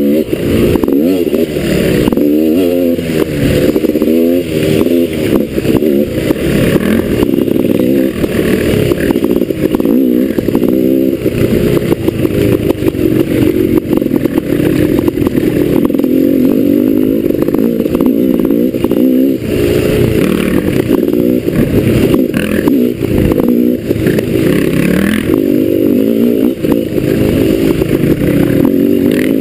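Dirt bike engine revving up and down repeatedly as it is ridden along a trail, with frequent knocks and clatter from the bike over rough ground.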